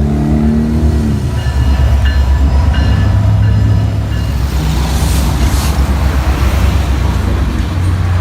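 Train locomotive running with a loud, steady low rumble. Faint high tones come and go over it.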